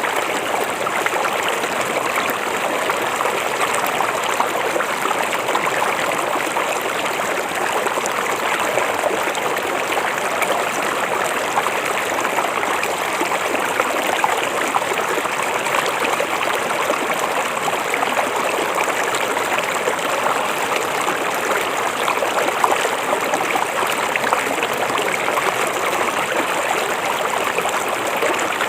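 River water flowing steadily, a continuous, even rush of water with no breaks.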